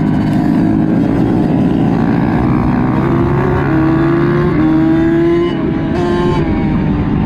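Kawasaki KX85's single-cylinder two-stroke engine running hard at race pace, its pitch climbing in steps with a brief drop about five and a half seconds in, with other mini bikes' engines running alongside.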